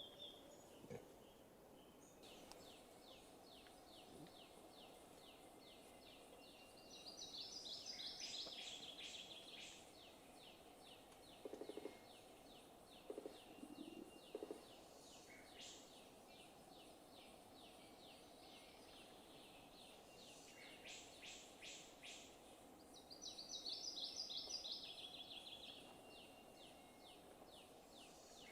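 Faint forest birdsong. A rapid, even series of high ticks runs throughout, and a louder, falling buzzy call rises above it twice. A few short low notes come in the middle.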